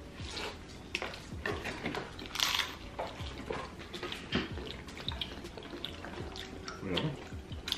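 People chewing crunchy hard-shell tacos: irregular crunching and mouth sounds, with a louder crunch about two and a half seconds in.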